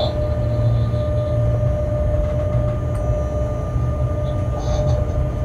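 Freight train cab noise while rolling along: a steady low rumble with a constant whine over it. A brief high squeal comes near the end.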